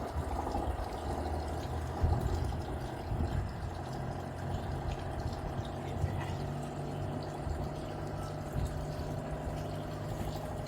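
A sailing yacht's engine running steadily at low revs, with water moving around the hull.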